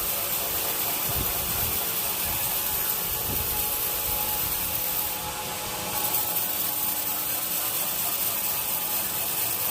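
Sawmill saw cutting through a teak log: a steady, continuous hiss of blade on wood with a faint machine hum beneath.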